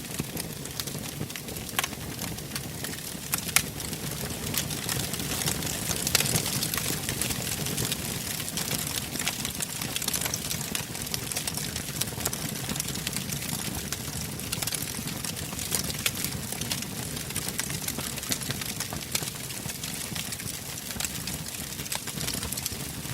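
Wood fire burning in a fireplace: a steady hiss with frequent small crackles and a few sharper pops in the first few seconds.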